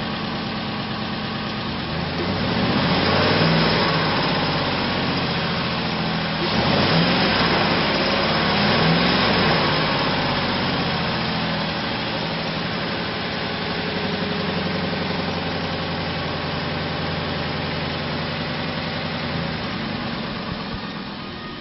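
Ford 5.4-litre V8 in a 2007 F-250 Super Duty pickup idling, revved up twice, once about two seconds in and again for a few seconds after that, then settling back to a steady idle.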